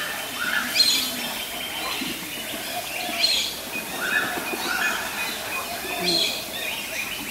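Birds chirping: short rising calls and higher notes repeated every second or two over a faint outdoor background.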